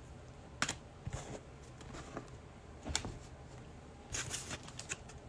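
Trading cards handled and flipped through: a few faint, sharp clicks and slides of slick card stock, with a small cluster of taps a little after four seconds.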